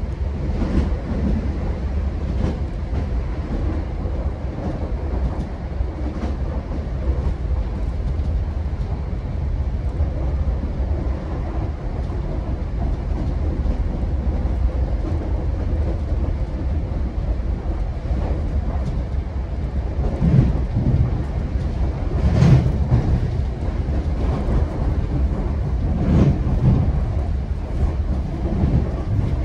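GO Transit commuter train running along the track, heard from on board: a steady low rumble with wheels clicking over rail joints, and a cluster of heavier knocks from about twenty seconds in.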